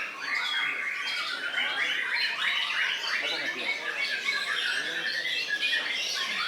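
Songbirds singing: a dense, unbroken run of quick, varied whistles and chattering notes.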